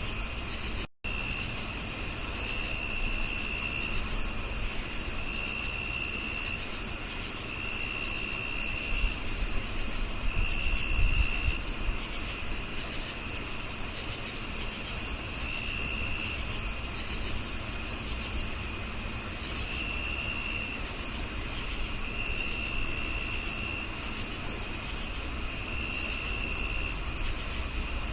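Crickets chirping in a chorus: a steady high trill, evenly repeated chirps about twice a second, and a lower trill coming in bursts of about a second. The sound cuts out for an instant about a second in, and a low rumble swells briefly near the middle.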